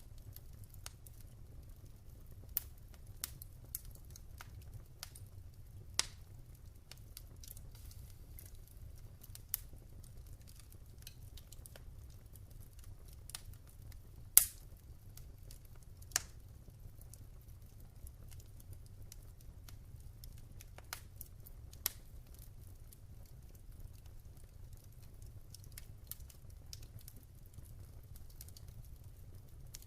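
Wood fire crackling in a fireplace: scattered sharp pops at irregular intervals, the loudest about halfway through, over a steady low rumble.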